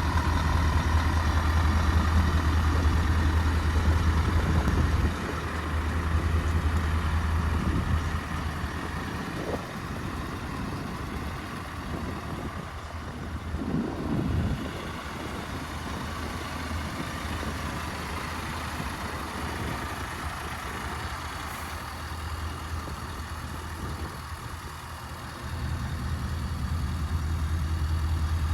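Scania S650's V8 diesel engine idling steadily, louder in the first five seconds and again for the last few seconds, quieter in between.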